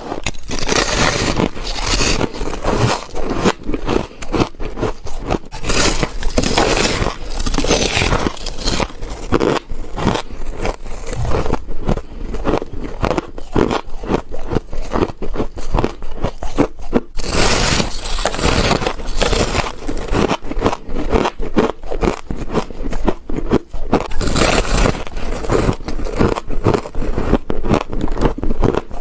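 Frost being bitten and chewed: a dense, continuous crunching and crackling, with louder crisp stretches every several seconds as fresh bites are taken.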